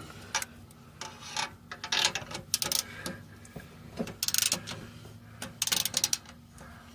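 Socket ratchet wrench clicking in several short bursts while turning exhaust nuts.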